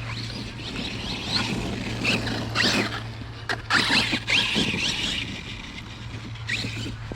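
Arrma Kraton 6S RC monster truck's brushless motor whining up and down in pitch in short throttle bursts, with noisy tyre churning on wet ground. The bursts are loudest in the middle.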